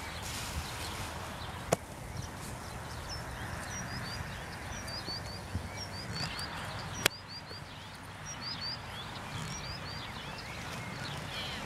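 Birds chirping in clusters of short, high, down-slurred calls, mostly in the second half, over a steady outdoor background noise. Two sharp clicks stand out, about two seconds in and again about seven seconds in.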